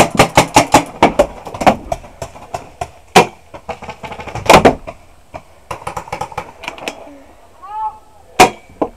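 Paintball markers firing: a fast, even string of shots in the first second or two, then scattered single shots, with loud close ones about three and four and a half seconds in and again near the end.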